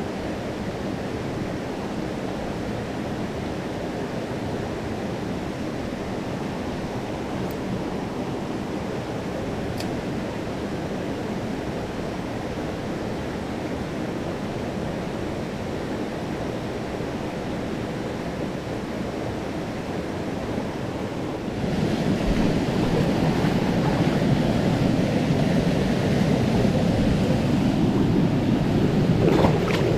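Mountain stream water rushing over rocks as a steady noise, suddenly louder about two-thirds of the way through.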